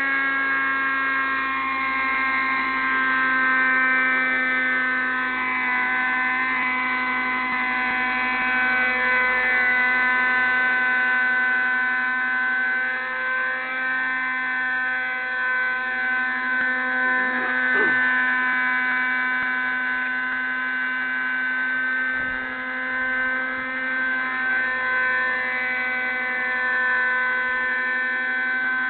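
Raptor 30 radio-controlled model helicopter's small nitro engine running steadily with a high-pitched buzzing whine, its pitch wavering slightly as the throttle shifts.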